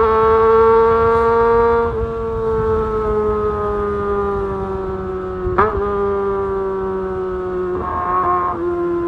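Kawasaki ZX-25R's 250 cc inline-four engine running at very high revs. The high pitch holds for about two seconds, then slowly falls, with a brief sharp blip about halfway through.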